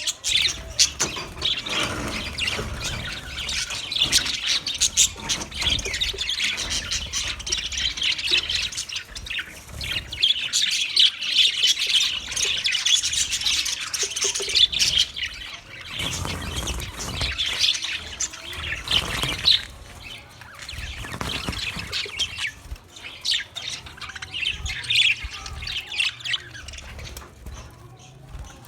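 Budgerigar singing: a continuous rapid warbling chatter of high chirps, busy for most of the stretch and thinning out in the last several seconds.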